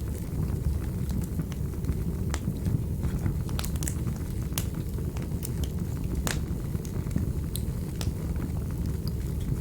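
Wood fire burning in a fireplace: a steady low rumble of flames with irregular sharp pops and snaps, one louder crack about six seconds in.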